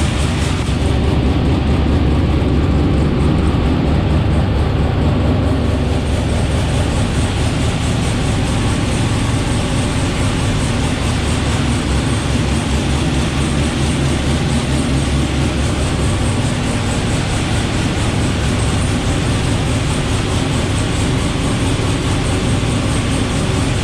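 Twin-turbocharged LS V8 drag car engine running loud and steady on a chassis dyno.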